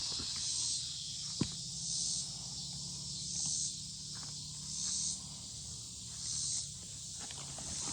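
Insects buzzing in a steady high chorus that swells and fades about every one and a half seconds, with a sharp click about a second and a half in and a few faint knocks.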